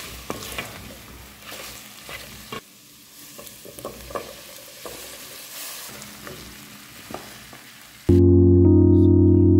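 Food sizzling in a hot pan while being stirred, with a cooking utensil knocking against the pan now and then. About eight seconds in, loud background music cuts in suddenly.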